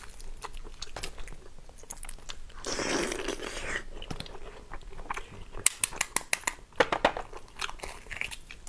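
Close-up eating sounds of chewing a boiled maodan, an egg with a partly developed chick inside. There is a longer slurp-like rush about three seconds in, then a run of sharp crunching clicks. Near the end comes the light crackle of eggshell being cracked and peeled.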